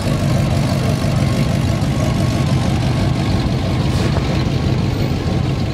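Engines of old American cars on oversized rims running at low speed as they roll slowly past: a steady, deep rumble.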